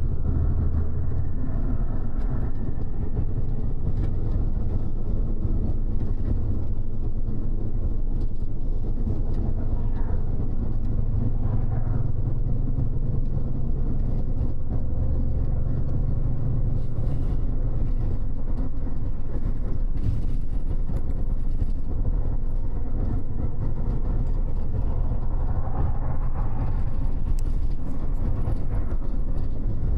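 Double-decker express bus running steadily at speed, its engine and tyre noise a deep, even rumble heard inside the upper deck.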